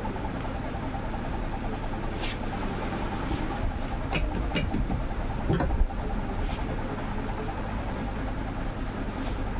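Steady rumbling background noise with several short, sharp clicks scattered through it, the loudest a little over halfway through.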